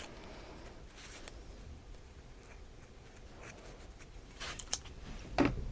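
Small scissors snipping a yarn tail, heard as a few faint sharp clicks among light handling rustles, with most of the clicks near the end.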